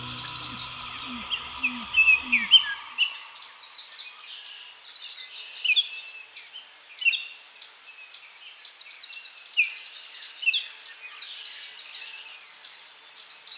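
Several small birds chirping and calling in a busy chorus, with a regular high ticking about twice a second behind them. Soft music fades out in the first couple of seconds.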